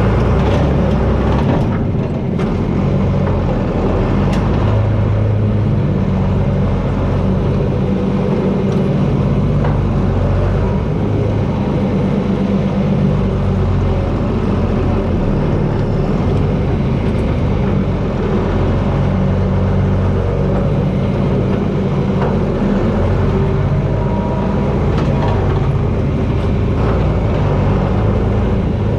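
John Deere 4320 tractor's six-cylinder diesel engine running steadily while pushing with a front blade, its pitch rising and falling a little throughout.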